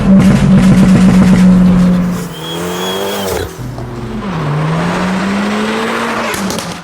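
Modified Abarth 500/595's turbocharged 1.4 four-cylinder engine through an aftermarket exhaust, held at high revs, then dropping off about two seconds in, blipping briefly and climbing steadily again before cutting off at the end.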